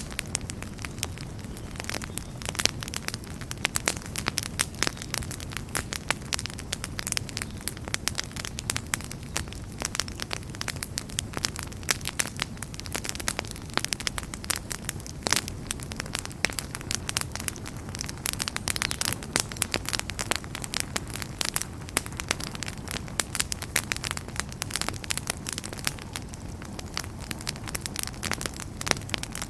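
Wood fire in a fireplace crackling, with many irregular sharp pops and snaps over a low steady rumble of the burning.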